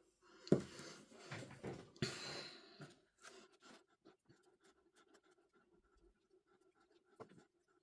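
Packaging being handled: rustling and crinkling for a couple of seconds, then faint scattered clicks and taps, with one sharper knock near the end.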